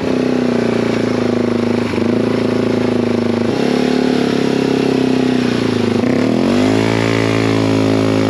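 Yamaha TW200's single-cylinder four-stroke engine held at high revs under throttle as the bike is powered through deep, slippery mud. The pitch steps up slightly twice, then dips about six seconds in and climbs back up.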